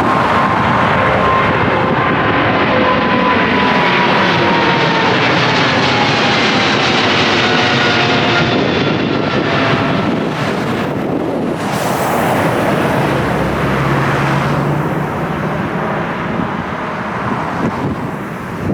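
Jet airliner climbing out overhead after takeoff: a loud, steady engine roar with a whine that slowly falls in pitch as it passes. A second, shorter rush of noise with a low hum follows about twelve seconds in.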